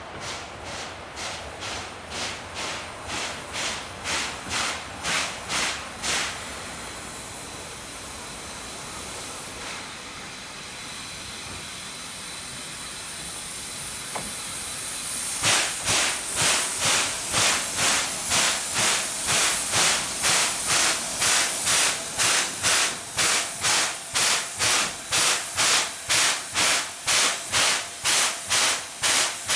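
C11 steam tank locomotive pulling away, its exhaust chuffing about two to three times a second with heavy hissing steam blown from below from the open cylinder drain cocks. The chuffs pause for several seconds under a steady hiss about a fifth of the way in, then resume louder through the second half.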